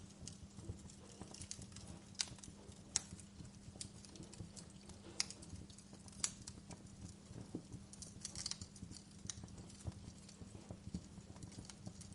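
Campfire wood crackling: irregular sharp pops and snaps, a few louder ones and a quick cluster of crackles past the middle, over a steady low hum.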